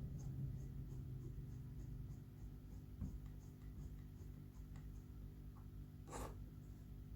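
Faint small scrapes and ticks of hand work on a ceiling fan while its blades are being taken off, with a single click about three seconds in and a longer scrape just after six seconds, over a low steady hum.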